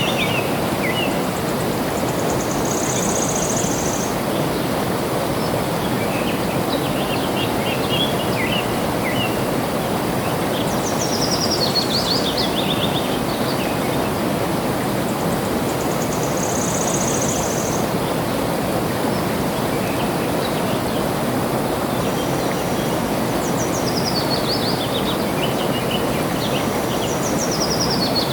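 Steady rush of flowing water with a songbird singing over it: a falling run of high notes repeated about every twelve seconds, with a short high buzzy trill and some lower chirps in between.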